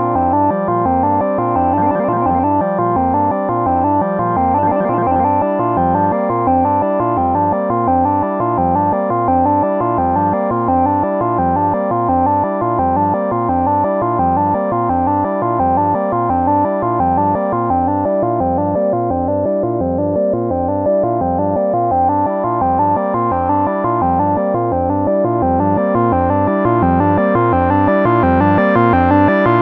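Moog Subharmonicon analog synthesizer playing a patch of two interlocking step sequences, a steady, evenly repeating pattern of pitched notes. The tone grows brighter near the end.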